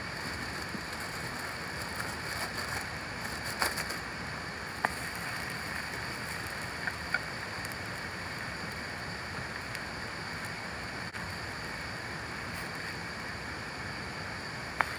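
Steady rain falling, with a few sharp ticks of drops, heaviest clustered about three to four seconds in.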